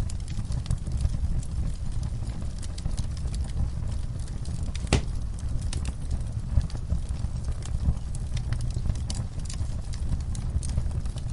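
Wood fire crackling over a steady low rumble of flames, with scattered snaps and one loud pop about five seconds in.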